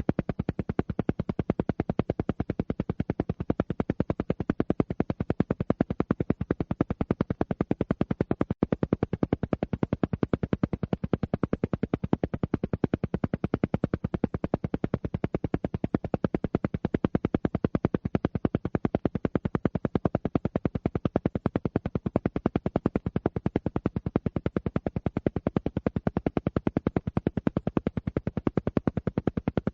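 Steady train of rapid, evenly spaced sound pulses, an alpha-wave pulsed-tone track meant for brainwave entrainment and relaxation.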